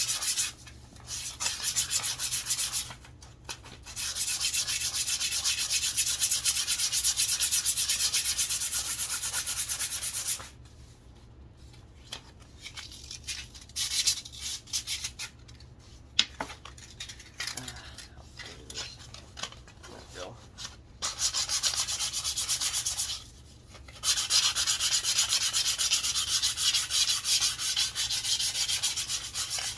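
Sandpaper rubbing along a wooden walking stick in fast, even back-and-forth strokes, a dense scratchy hiss. It stops briefly a few times, and through the middle it thins to a quieter stretch of scattered light strokes.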